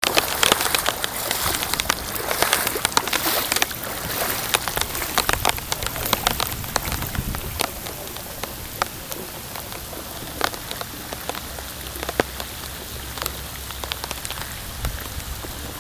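Rain falling, with many separate drops clicking on a surface close by. It is heaviest for the first few seconds and then eases.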